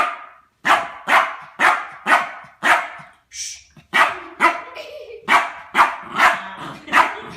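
Dog barking repeatedly, about two sharp barks a second, with a brief pause a little before halfway.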